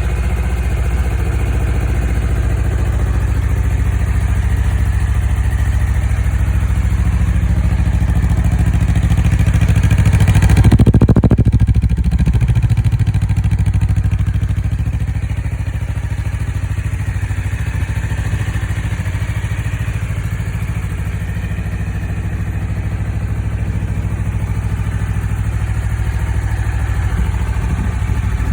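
Honda CBR250RR (MC51) water-cooled parallel-twin engine idling through its stock muffler, having just been started. About ten seconds in it is revved once, the pitch rising and falling back to idle over a couple of seconds.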